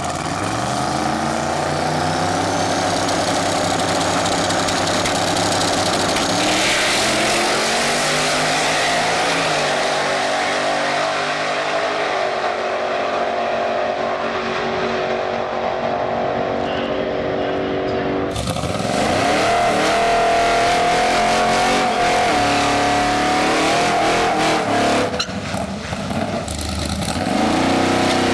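Drag racing cars' engines at full throttle, pitch climbing in steps through the gears. The sound changes abruptly about 18 seconds in, as another car's run begins.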